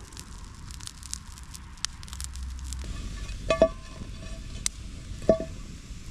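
Wood campfire crackling and popping, with two sharp metallic clanks that ring briefly, about three and a half and five seconds in.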